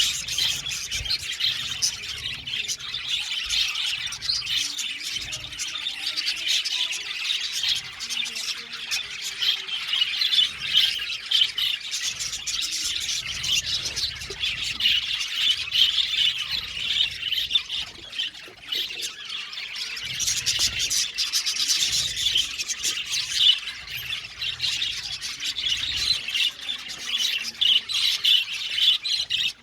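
A flock of budgerigars chattering, with many chirps and squawks overlapping in a continuous din.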